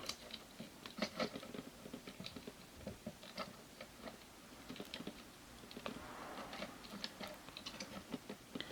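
Hard plastic action-figure parts handled: faint, irregular small clicks and taps, like pieces being turned over and knocked together.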